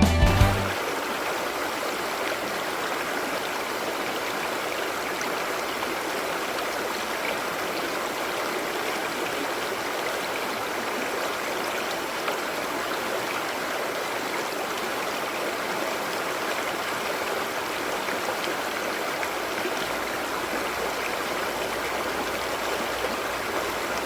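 A mountain creek flowing, a steady, even rush of running water.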